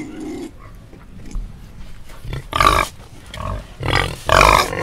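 Pig grunting in a series of short calls, the two loudest about two and a half and four and a half seconds in.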